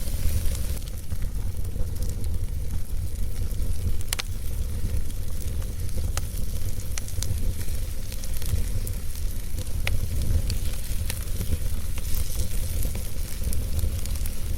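Wood fire burning in a fireplace: a steady low rumble of the flames with scattered sharp crackles and pops of the logs, a louder pop about four seconds in and another near ten seconds.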